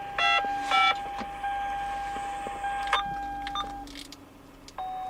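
Car's electronic chimes beeping twice as the car is switched on, followed by a steady electric whine and low hum.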